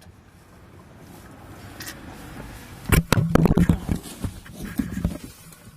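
Metal clunks and scraping as a Nippon Denso starter motor is handled and pulled out from under the car: a sharp knock about three seconds in, then a run of further clunks and rattles.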